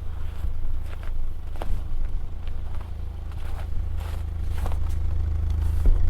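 Volvo 945's 2.3-litre four-cylinder engine idling with a loud, deep exhaust note: the muffler is rotted out. Scattered scrapes and clicks are heard over it.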